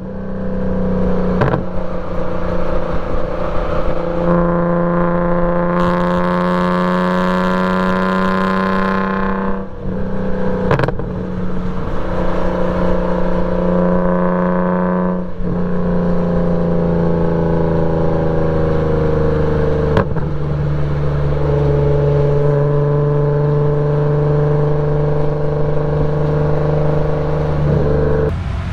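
BMW E46 M3's straight-piped 3.2-litre inline-six at speed on a racetrack. It pulls up through the revs, breaks briefly for an upshift about ten seconds in, and pulls again. Then it drops back and holds a steadier, lower note for the last dozen seconds.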